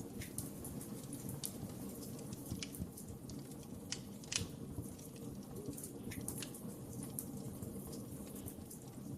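Wood fire burning with a low steady rumble and frequent sharp crackles and pops, the loudest pop about four seconds in.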